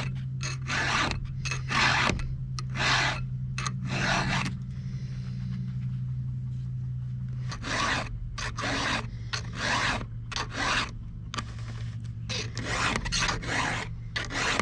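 Hand file rasping across the cutters of a chainsaw chain during sharpening, in repeated strokes about one to two a second, with a pause of about three seconds in the middle. A steady low hum runs underneath.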